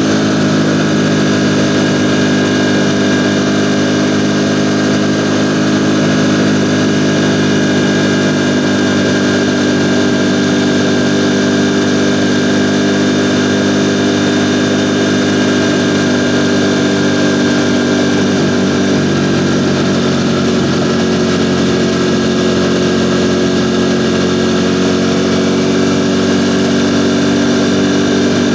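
Ducati Panigale V4 motorcycle's V4 engine running at a steady engine speed, dipping slightly in pitch about two-thirds of the way through.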